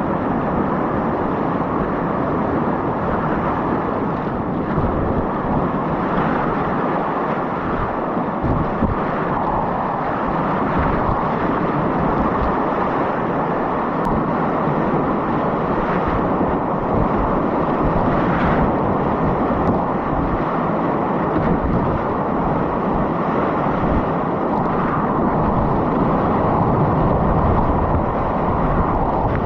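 Whitewater river rapids rushing, a loud steady roar of moving water.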